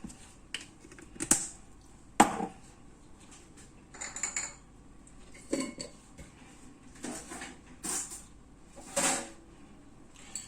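Kitchen utensils and spice containers clinking and knocking against a bowl while spices are added. About seven separate light knocks and short scrapes.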